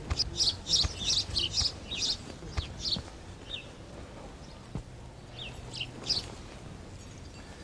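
Small birds chirping in quick clusters of short, high chirps, busiest in the first three seconds and again near the end. A few soft knocks sound underneath.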